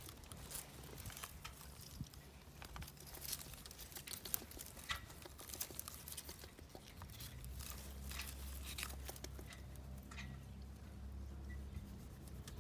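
Dry wood mulch crackling and rustling in scattered bursts as a cat rolls and rubs on it. A low steady hum comes in about seven seconds in and fades out near the end.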